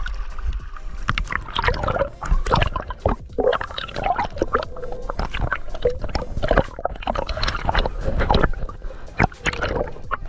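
Water gurgling and sloshing, with bubbling, in quick irregular bursts, as heard from a camera at or under the water during a spearfishing dive.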